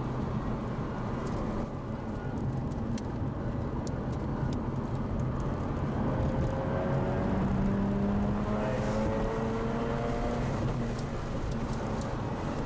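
Mazda RX-8 two-rotor rotary engine heard from inside the cabin under way on track, with steady road and wind noise. About halfway through the engine note climbs in pitch as the car accelerates, drops once at a gear change, then climbs again.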